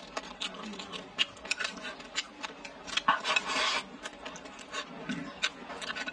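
Close-up eating sounds: chewing a mouthful of rice with a run of small wet mouth clicks and smacks, and a longer scraping rustle a little after three seconds in as chopsticks push rice from the bowl.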